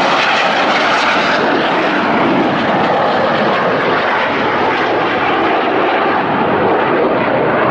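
Red Arrows BAE Hawk jets with Rolls-Royce Adour turbofans flying overhead in a display, a loud, steady jet roar. The high hiss in it eases after about a second and a half.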